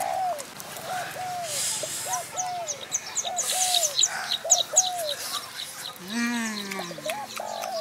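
Birds calling: a short rising-and-falling note repeated about twice a second, with a fast high-pitched ticking series of about four a second through the middle. About six seconds in comes a low, falling voice-like sound.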